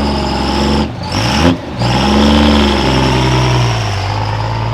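Turbo diesel pulling truck's engine running hard at high revs, dipping briefly about a second in and climbing back up.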